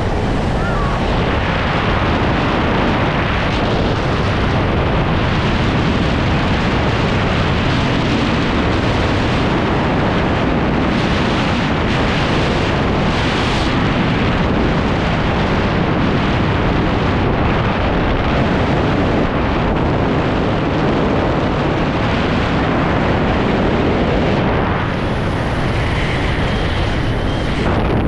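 Loud, steady rush of wind buffeting the microphone during a wingsuit flight at speed.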